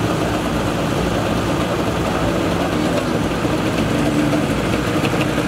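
Engines idling steadily, a dense and continuous motor noise with a low hum and no revving.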